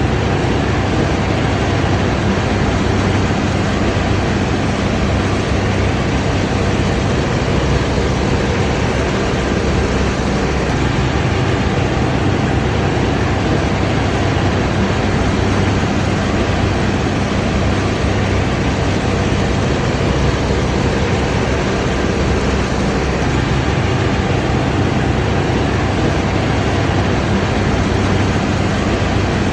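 Combine harvester running steadily: a constant engine drone with the even rush of its machinery, unchanging throughout.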